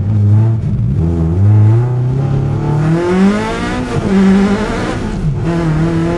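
Race car engine heard from inside the cockpit. The revs climb over the first few seconds, drop sharply near four seconds and again briefly past five, then pick up again.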